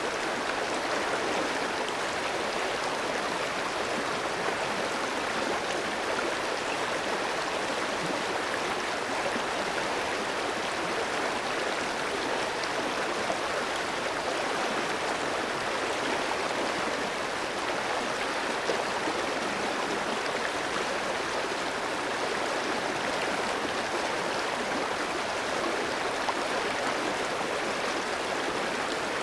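Clear stream of water flowing steadily over rocks, a continuous even rush with light gurgling.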